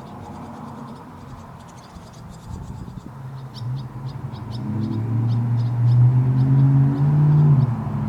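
Crickets chirping in short, regular pulses, with a low engine-like drone growing steadily louder over the second half.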